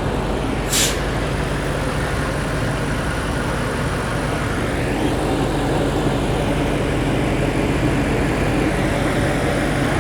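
Steady motor-vehicle and traffic noise with a low engine hum, cut by a short sharp hiss like an air-brake release about a second in.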